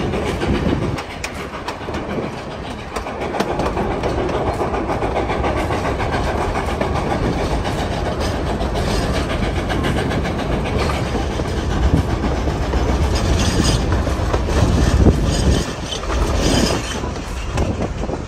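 Narrow-gauge passenger train rolling along with a steady low rumble, its wheels clacking irregularly over the rail joints.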